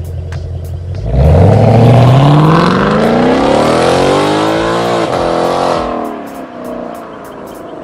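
2018 Ford Mustang engine idling, then revving hard about a second in: the pitch climbs for several seconds, drops back and settles to a quieter run near the end.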